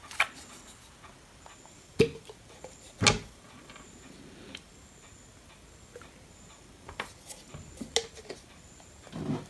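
A few sharp taps and clicks of small hard objects being handled on a workbench. The two loudest come about two and three seconds in, and lighter ones follow near the end.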